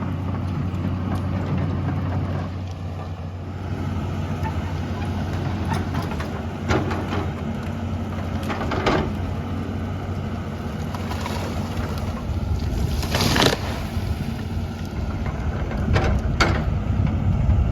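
Excavator's diesel engine running steadily, with several sharp cracks and snaps of wood breaking as trees and branches are pushed over and crushed.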